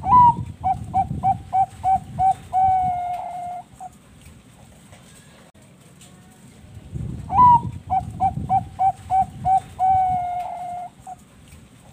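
Zebra dove (Thai-bred 'perkutut bangkok') singing its cooing song twice, about seven seconds apart. Each phrase opens with a rising note, runs into about half a dozen short quick coos, and ends in one long drawn-out coo.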